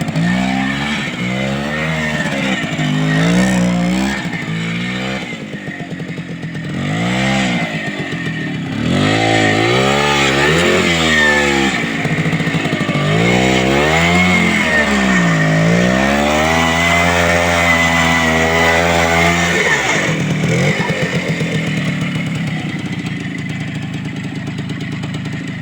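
Minsk 125 two-stroke single-cylinder motorcycle engine revving up and down over and over, as in a burnout and tight circles. It is then held high for a few seconds and drops to a lower, steady running about twenty seconds in.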